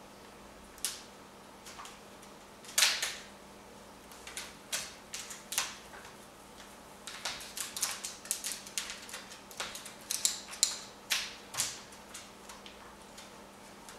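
Congo African grey parrot rummaging in its toy box: toys clicking, knocking and clattering at an irregular pace. The loudest knocks come about three seconds in, and they grow busier in the second half.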